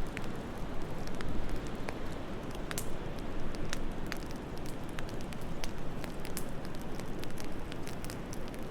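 Wood fire crackling in a fireplace, with irregular sharp pops and snaps over a steady low rumble and hiss of the flames and soft wind.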